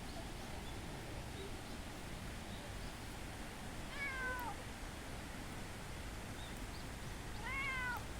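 A cat meowing twice: a short call about four seconds in that falls in pitch, and another near the end that rises and then falls.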